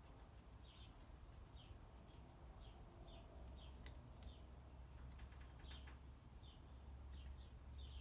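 Near silence, with faint short high chirps repeated about twice a second, like a small bird calling, and a few light clicks of a screwdriver tightening terminal screws on the door-lock wiring.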